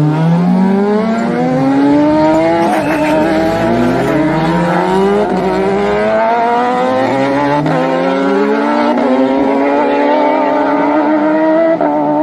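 Racing superbike engines accelerating hard up through the gears, the pitch climbing and then dropping back at each upshift, again and again, with more than one bike heard at once.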